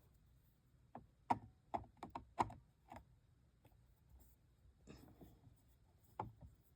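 Scattered light clicks and taps of hands handling a plastic toy aquarium's parts, a burst of them about a second in, then a few more near the end.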